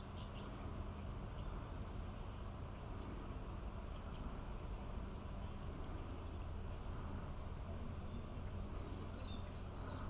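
Outdoor background with a steady hiss and faint, scattered high-pitched chirps from small birds, a few of them short downward sweeps.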